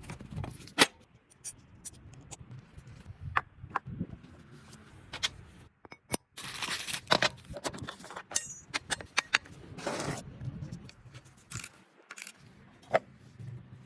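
Irregular light clicks, knocks and scrapes of metal parts being handled and worked, with two longer scraping stretches about six and ten seconds in.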